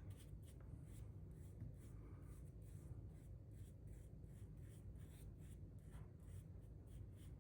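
Faint, quick rubbing strokes, about three a second, of wood stain being spread over a deer antler, over a low steady hum.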